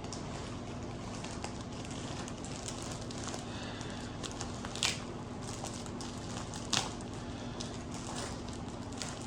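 Packaging being opened by hand: quiet crinkling and rustling with scattered small clicks, and two louder brief scratchy rips about five and seven seconds in.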